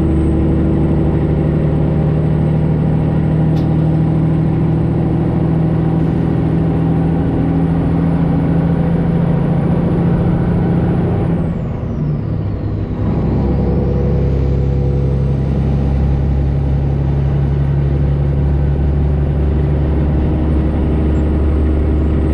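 Straight-piped Detroit Diesel 12.7-litre Series 60 inline-six pulling a loaded semi truck, running steadily. A little past the middle the engine note drops out for about a second while a high whistle falls and then climbs back as the engine picks up again.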